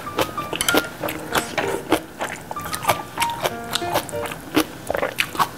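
Close-miked chewing of kimchi: many quick, crisp mouth clicks and crunches, several a second. Under it, light background music with a plucked, ukulele-like melody.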